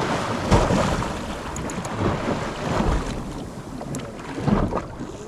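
Wind buffeting the microphone on a fishing boat at sea, over a steady wash of sea and boat noise, with a few short knocks.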